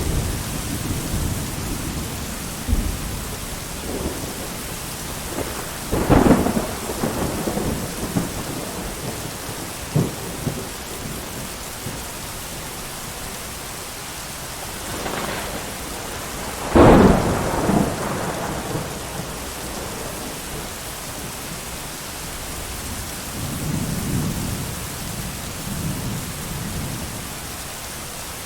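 Thunderstorm: steady rain with several claps of thunder. The two loudest come about a fifth of the way in and just past the middle, and a low rumble rolls in near the end.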